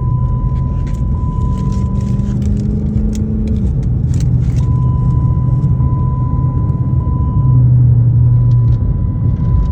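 A car running on the road: a steady, loud engine and road rumble, with the engine note rising slightly in the first few seconds.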